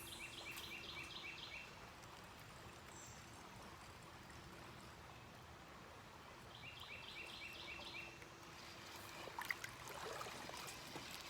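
A songbird singing a quick phrase of about six repeated high notes, twice, some six seconds apart, over the faint steady wash of the creek. A few soft clicks and rustles near the end.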